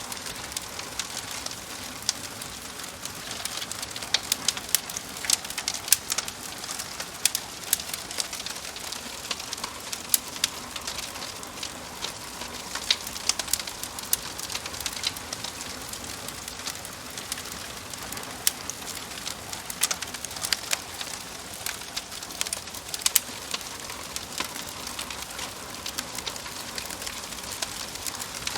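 Wood fire crackling, with frequent sharp pops at irregular intervals over a steady hiss.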